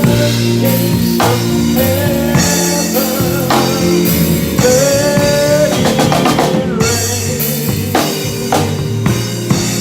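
Church band music with a drum kit playing a steady beat over sustained held chords.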